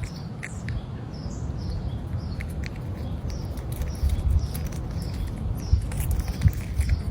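Short, high-pitched animal chirps that fall in pitch and repeat several times, over a steady low rumble, with scattered knocks and clicks growing louder in the second half.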